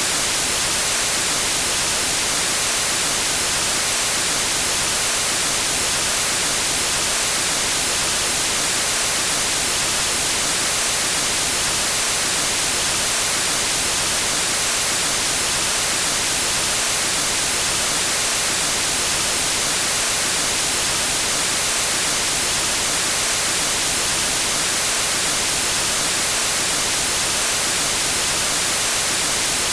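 Steady, unchanging hiss of television static, strongest in the high frequencies.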